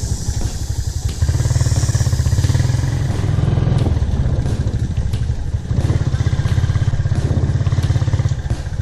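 Motorcycle engine running under way, the throttle opened harder in two stretches (starting about a second in and again past the middle) and eased off between them.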